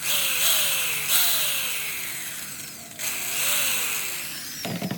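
A small power tool's motor triggered in short pulses: each time it revs up quickly, then winds down slowly over about a second, with a loud hiss that cuts in and out with each pulse.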